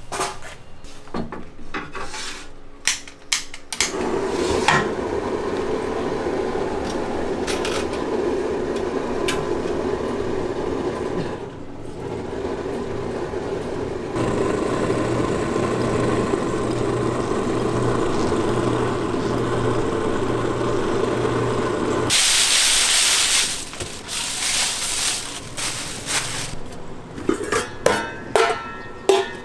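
Gas-fired rice-puffing machine running: a steady burner hiss with a low hum, then about 22 seconds in a louder rush of hiss for a couple of seconds, followed by clinks and rattles.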